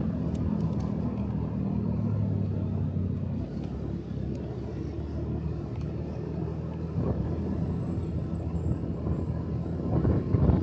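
Motorcycle engine running while riding, with road and wind rumble; its note drops a little about three seconds in.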